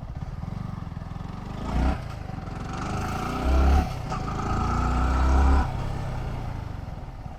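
Motorcycle engine running under way, with throttle surges: its pitch climbs in short revs about two seconds in, then again mid-way, the longest and loudest rev around five seconds in, before easing off.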